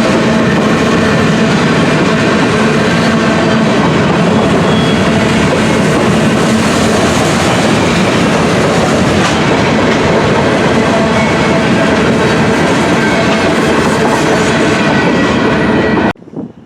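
A freight train's cars rolling past close by: steady loud wheel-on-rail noise with thin ringing tones from the wheels. The sound cuts off suddenly near the end.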